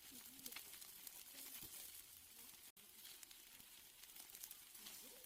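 Faint sizzling and crackling of steaks grilling over an open fire, with scattered sharp pops; the sound cuts out for an instant about halfway through.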